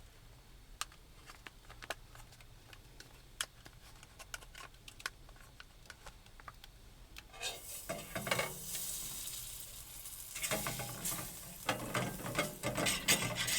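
Butter sizzling in a hot pan, a hiss that starts about halfway through, preceded by a few light clicks and taps.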